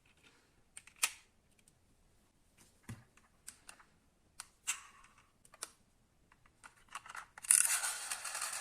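Small diecast metal model cars being handled: scattered light clicks and taps, then a louder, dense rustling and clicking starting about seven and a half seconds in.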